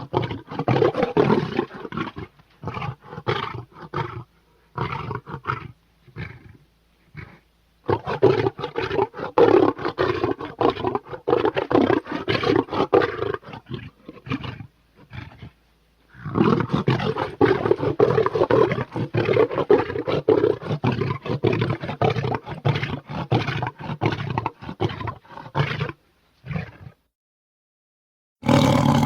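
Smilodon (sabre-toothed cat) creature sound effects: a string of big-cat roars in bursts separated by short gaps, with two long runs in the middle. The roars stop a couple of seconds before the end, then a new one starts.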